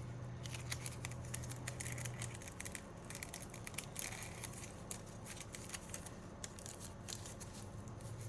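Faint crinkling and small clicks of plastic-wrapped nail decal sheets being handled and shuffled, scattered irregularly throughout.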